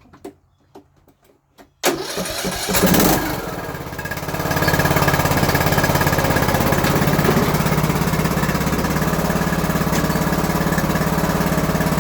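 Craftsman YTS3000 lawn tractor engine: a few light clicks, then it is cranked and catches about two seconds in, flares briefly, and settles into steady, even running. The owner thinks the valve adjustment may have been the whole problem behind the supposed rod knock.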